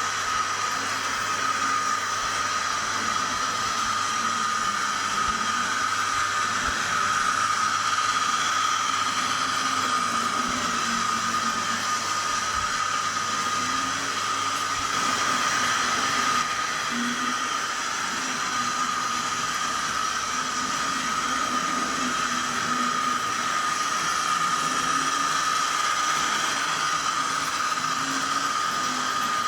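Model diesel locomotive's DCC sound decoder playing its engine-running sound through the model's small onboard speaker: a steady hum that wavers a little, with a constant high whine and a hiss over it.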